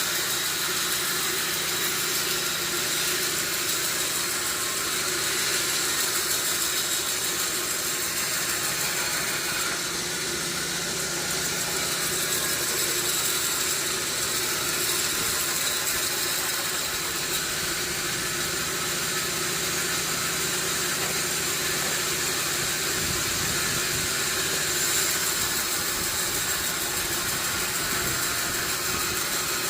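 Sawmill machinery running steadily: a constant mechanical noise with a high whine over a low hum. A rougher low rumble comes in for a couple of seconds near the end.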